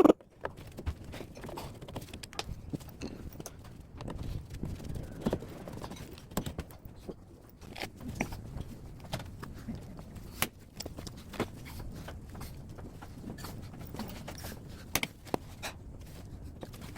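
Irregular light clicks, taps and metallic knocks of hand work on a scrapped air-conditioner outdoor unit being taken apart. A few sharper knocks stand out about eight, ten and fifteen seconds in.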